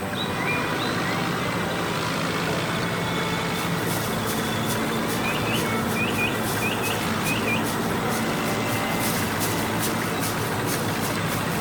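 Tractor engine running steadily, with short rising bird chirps near the start and again in the middle. From about three and a half seconds in, a rapid run of even clicks joins.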